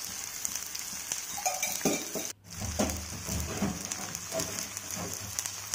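Masala-coated raw banana slices shallow-frying in oil in a nonstick pan: a steady sizzle, cut off briefly about two and a half seconds in, with faint handling sounds over the pan.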